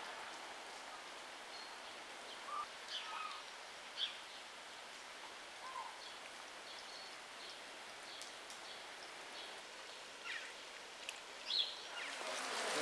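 Birds calling in short, scattered chirps over a faint steady outdoor hiss. A louder hiss rises near the end.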